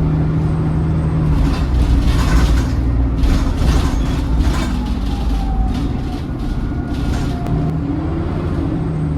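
Double-decker bus engine heard from inside the bus, first running with a steady hum. It then grows louder with rattling and road noise, and a faint whine slides down in pitch before the steady engine note returns near the end.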